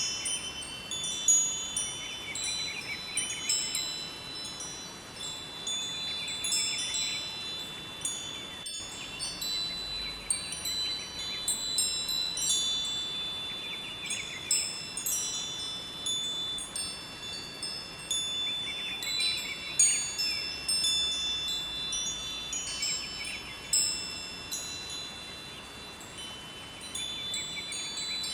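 Wind chimes ringing in irregular clusters of high, overlapping tones that sustain and fade, over a faint steady rush of flowing river water.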